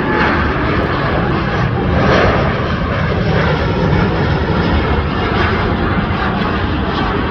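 Jet engines of a British Airways Boeing 787 Dreamliner, its Rolls-Royce Trent 1000 turbofans, running at takeoff power: a loud, steady rumbling roar with a deep low end.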